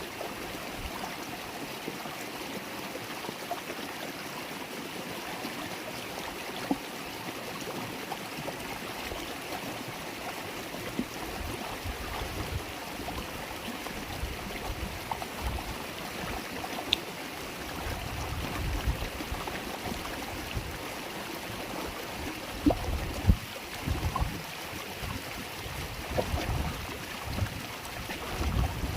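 River water babbling and flowing steadily. From about halfway through, low rumbling surges come and go, with two sharper low thumps a little after three quarters of the way in.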